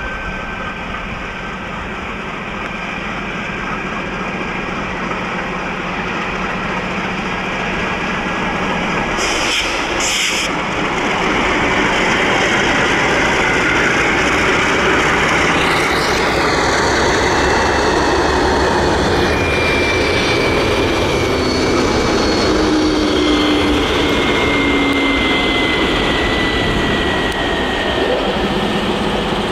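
MLW diesel locomotives running, their engine and rail noise growing louder over the first ten seconds or so and then holding steady. Faint tones slide slowly down in pitch in the second half.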